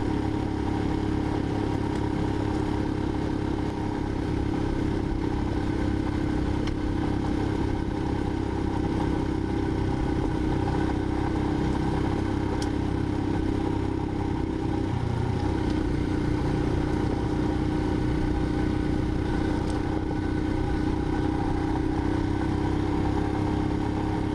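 Single-cylinder Royal Enfield motorcycle engine running at a steady, even speed under way, with a brief dip in engine note about fifteen seconds in.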